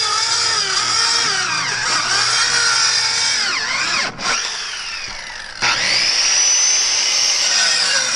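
Ryobi CSB125 13-amp corded circular saw running, its motor whine dipping in pitch a few times as the blade takes load. The whine cuts off about four seconds in and winds down, then the saw is triggered again about five and a half seconds in and climbs back to a steady high whine at full speed.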